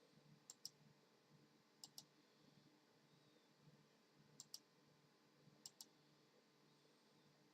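Four pairs of sharp clicks over near silence, the two clicks of each pair coming in quick succession, with the pairs an irregular second or two apart.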